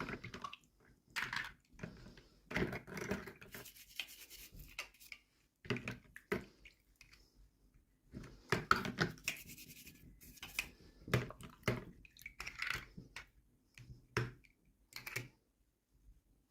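Toy packaging and small plastic miniatures being handled and unwrapped: bursts of crinkling, scraping and tapping with short pauses between them.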